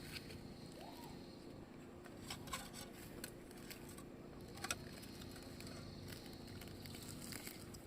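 A few faint, sharp clicks and small knocks, scattered over a steady low hum.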